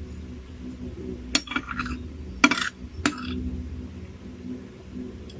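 Spoon clinking against a bowl three times, each strike ringing briefly, over a low steady hum.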